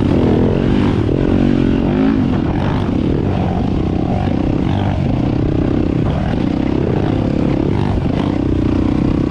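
Single-cylinder four-stroke dirt bike engine running under load, its pitch rising and falling about once a second as the throttle is worked.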